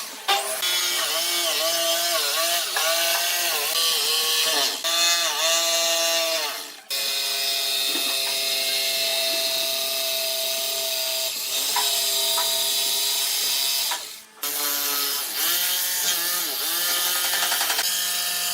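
Electric power tool motor running while working wood, its pitch dipping and recovering again and again as it bites under load. It holds a steady pitch for a stretch in the middle and stops briefly twice before starting again.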